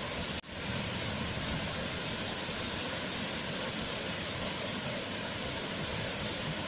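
Waterfall rushing in a steady, even roar of falling water, which drops out for an instant about half a second in.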